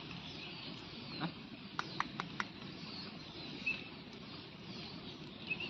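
Small birds chirping faintly and continuously in the background, with a quick run of four sharp clicks about two seconds in and a couple of brief high peeps later on.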